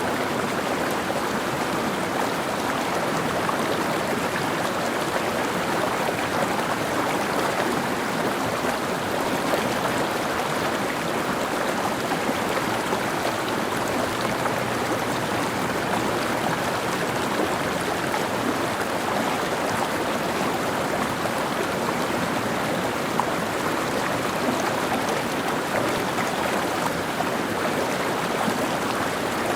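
Mountain stream flowing and babbling over rocks, a steady even rush of water.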